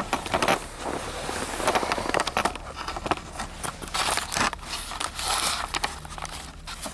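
Irregular crinkling, scraping and knocking of garbage and junk being handled and tossed out while unloading at a landfill.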